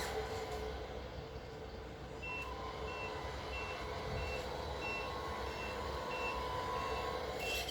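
Tamiya 1/14 Mercedes-Benz Arocs 4151 RC tipper truck's MFC-03 sound unit playing a reversing beeper, about two short beeps a second, starting some two seconds in, over the unit's simulated truck engine sound.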